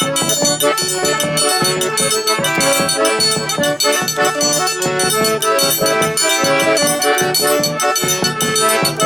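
Live forró pé-de-serra played without singing: an accordion carries the melody over a steady percussion beat.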